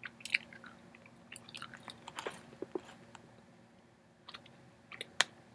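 A person chewing a gum-like, chewy ramune-flavoured candy piece: scattered small wet clicks and smacks of the mouth, with a sharper click near the start and another near the end.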